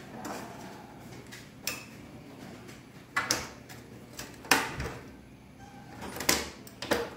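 Metal gas-stove parts being handled and fitted: five or six sharp knocks and clicks, spaced irregularly, as the new burner valve is set into the stove body.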